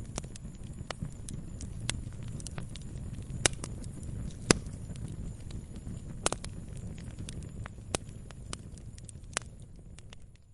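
Wood fire burning, with a steady low rumble under irregular sharp crackles and pops. Two louder pops come about three and a half and four and a half seconds in, and the sound fades down near the end.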